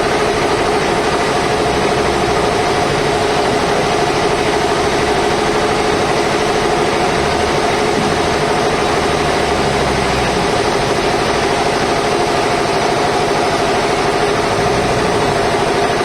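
Sawmill machinery running with a steady, unchanging mechanical hum.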